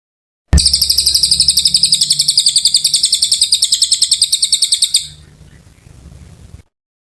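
A cililin bird singing a long, rapid, high-pitched trill of evenly repeated notes for about four and a half seconds, which then drops to a faint tail and cuts off abruptly.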